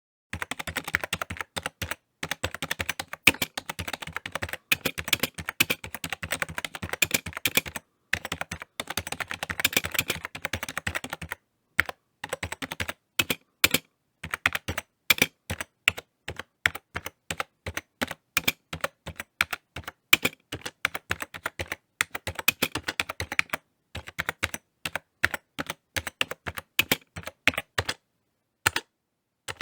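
Typing on a computer keyboard: fast runs of key clicks broken by short pauses, about four of them.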